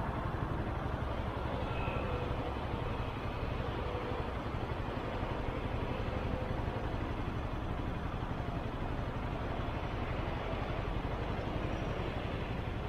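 Motorcycle riding at a steady pace: the engine runs evenly under a constant rush of road and wind noise on the microphone.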